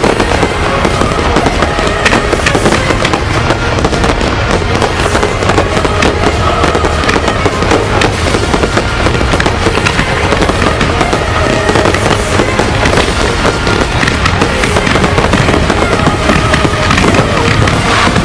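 A dense, unbroken barrage of fireworks: rapid crackling and bangs packed closely together, with music playing under it.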